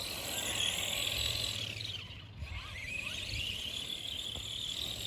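Electric motor whine of a radio-controlled car, high-pitched, dropping in pitch and fading about two seconds in as it slows, then rising again as it speeds back up.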